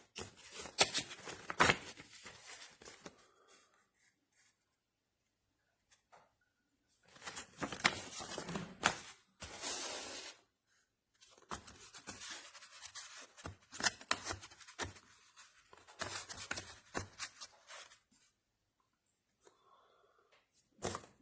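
Hand-handling noises: rustling, tearing and snipping in bursts of a second or more with sharp clicks, broken by pauses of near quiet.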